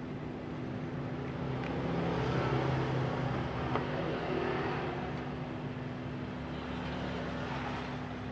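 Steady low hum, with a rumbling noise that swells for a few seconds around the middle and then fades, like a road vehicle going past.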